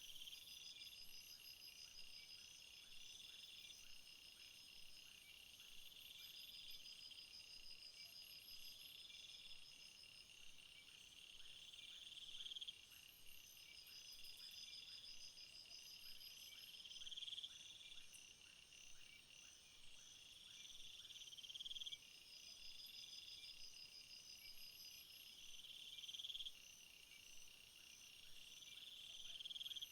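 Faint chorus of calling insects, high-pitched pulsing trills. One call swells and cuts off sharply about every four to five seconds over a steadier chirping.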